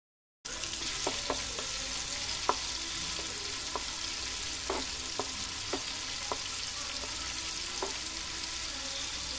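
Marinated prawns frying in oil in a nonstick kadai: a steady sizzle, with light knocks of a wooden spatula on the pan now and then as they are stirred. The prawns are fried through. The sound cuts in about half a second in.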